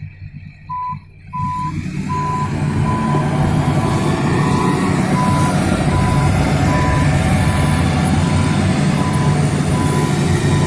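A truck's reversing alarm beeps steadily, a little faster than once a second. Underneath, the truck's engine runs loud and heavy, coming up sharply about a second and a half in.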